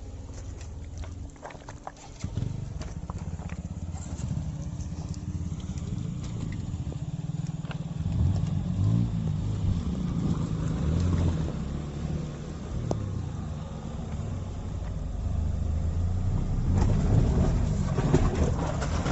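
Tata Altroz hatchback driving over rough ground: a steady low engine and road rumble that grows louder after about two seconds, with scattered clicks and knocks in the first few seconds.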